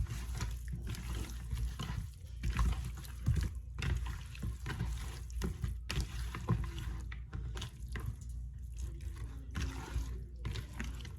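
Wet, irregular squishing and sloshing of raw chicken wings being mixed and coated with seasoning in a bowl.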